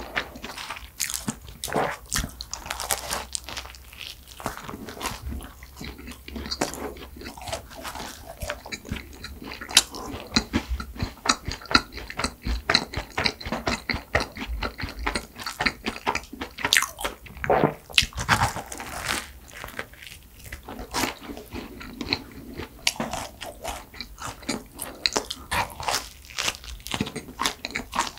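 Close-miked chewing of a crusty, cream-filled bread roll: irregular crisp crunches and crackles from the crust between softer, wet mouth sounds.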